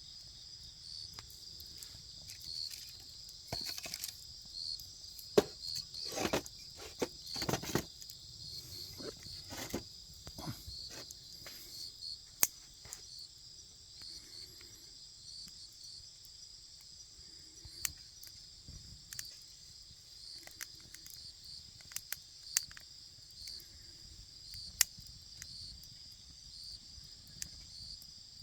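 A campfire crackling, with sharp single pops every few seconds and a denser run of crackles and snaps about five seconds in. Under it, insects chirp in a steady, high, pulsing chorus.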